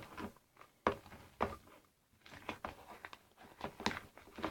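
Sticky homemade glue slime being kneaded and pulled, giving irregular wet clicks and squelches; the slime is not yet fully set and still sticks.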